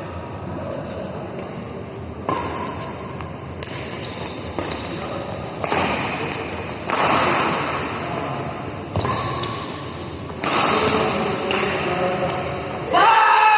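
Badminton rally: the shuttlecock struck back and forth by rackets, sharp hits about every one to two seconds, echoing in a large hall.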